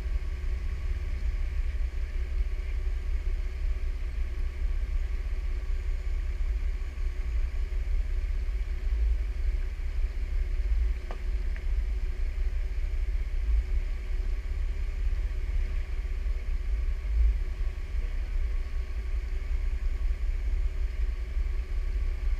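Jeep Wrangler engine idling, picked up by a camera on its hood, under a heavy, uneven low rumble. There is a single faint click about eleven seconds in.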